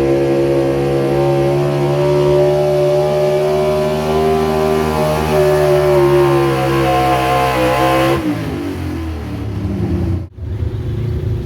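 A pulling vehicle's engine runs hard under load, its pitch slowly climbing. About eight seconds in it drops off sharply as the driver lets off, then runs lower and rougher, with a brief break near the end.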